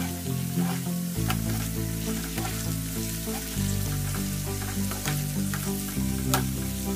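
Diced potatoes frying in hot oil in a pan, a steady sizzle with scattered pops, stirred with a slotted spatula. Soft background music plays underneath.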